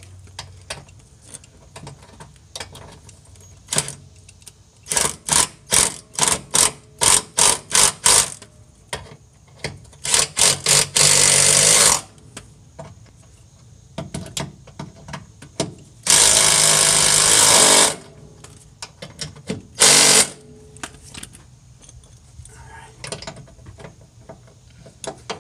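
Small impact wrench hammering 12 mm bolts tight on sway bar bushing brackets. It comes first in a quick string of short bursts, then in two longer runs of about two seconds each, with one last short burst.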